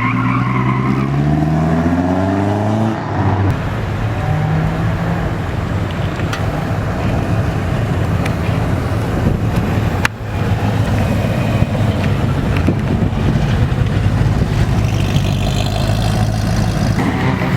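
A car's engine revs up hard under acceleration, its pitch climbing steadily for the first three seconds, then settles into a loud, steady low exhaust rumble. Near the end another rise in pitch comes in.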